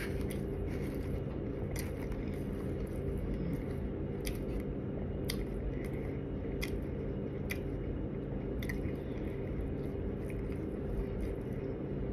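A person chewing and biting chicken tacos close to the microphone, with sharp mouth clicks and smacks at irregular intervals, about one a second. A steady low hum runs underneath.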